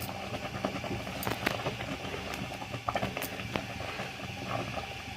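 A thick nettle and maize-flour mixture being stirred in a cooking pot, with irregular knocks and scrapes of the spoon against the pot over a steady low bubbling.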